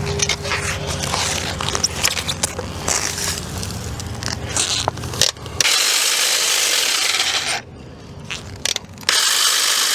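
A cordless power saw cutting through tree roots beside a truck tire. First comes a stretch of clicking and scraping, then two runs of loud cutting noise, about six seconds in and again near the end.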